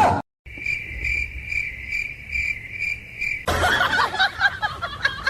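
Cricket chirping: a steady high trill that pulses about two to three times a second. About three and a half seconds in it is cut off by a busy, noisy stretch of other sound.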